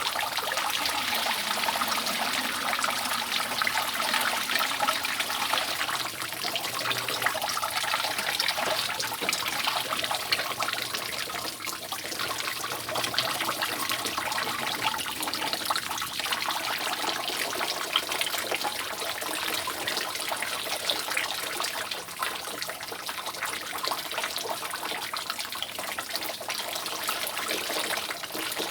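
Rainwater dripping and trickling steadily off a roof: a dense run of small drop hits over a continuous trickle.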